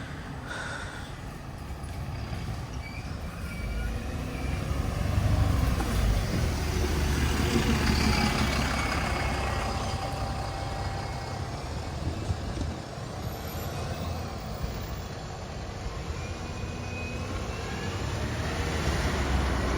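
Heavy road vehicle's diesel engine rumbling as it passes, growing loudest about five to nine seconds in, then easing off and swelling again near the end.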